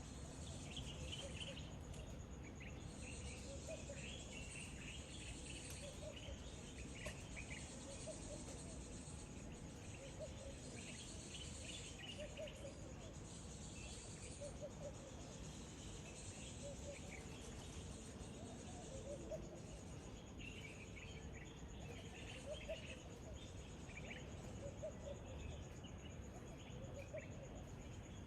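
Outdoor ambience of insects and birds: a steady high insect drone, with birds chirping in scattered bursts and a lower short call repeating every couple of seconds.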